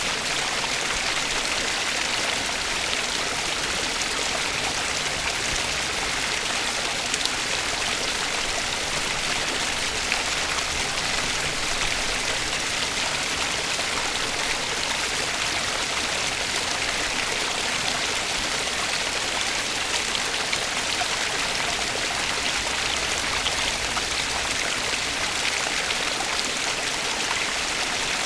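Flowing water, like a stream, running with a steady, even rush.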